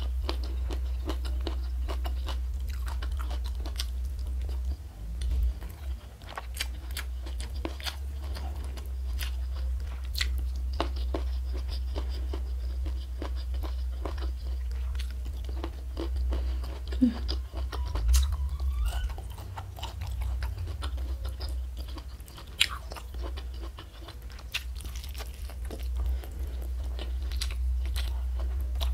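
Close-miked chewing and biting of crunchy food, with many sharp, irregular crunches and mouth clicks over a steady low hum.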